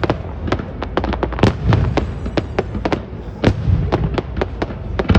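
Fireworks going off in a rapid, irregular string of sharp cracks and bangs, several a second, over a steady low rumble of booms.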